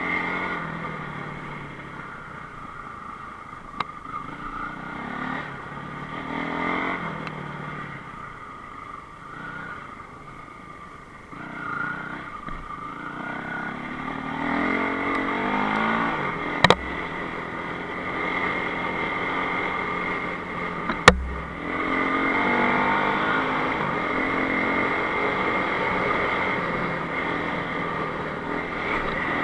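Enduro motorcycle engine running and revving up and down with the throttle, easing off for a while in the middle. Two sharp knocks sound over it later on, the second the louder.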